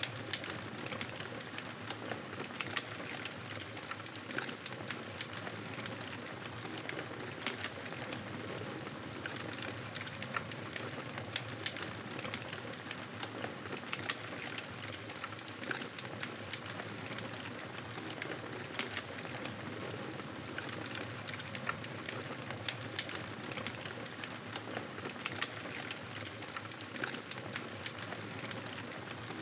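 Campfire burning and crackling: a steady hiss of flames with frequent sharp, irregular pops and snaps from the burning wood.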